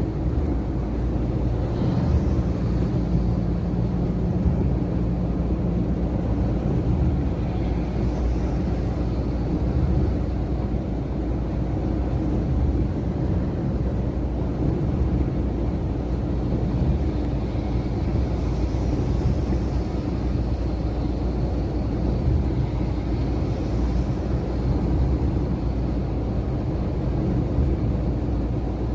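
Iveco truck engine running steadily, a low, even rumble.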